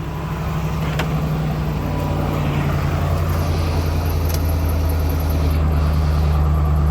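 2000 GMC Sierra 3500 pickup engine idling steadily just after a cold start at about 10°F, running smoothly, "purrs like a kitten".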